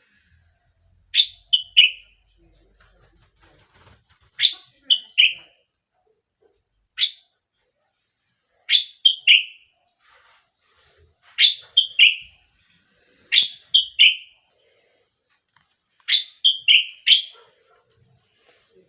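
Bulbul singing: about seven short phrases, each of two or three quick whistled notes that sweep downward, repeated every two to three seconds.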